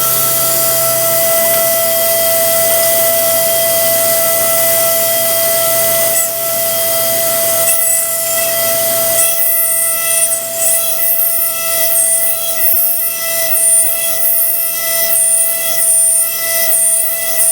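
Versamill 5X200 dental milling machine grinding an e.max lithium disilicate ceramic block: a steady high spindle whine over a hiss. From about nine seconds in it turns uneven and scratchy as the tool works the block.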